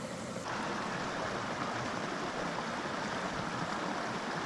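Small mountain creek flowing, a steady wash of running water; about half a second in its sound changes abruptly and becomes fuller.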